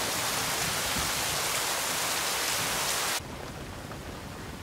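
Rain falling as a steady, dense hiss. About three seconds in it drops suddenly to a quieter, duller patter of rain heard from inside a van.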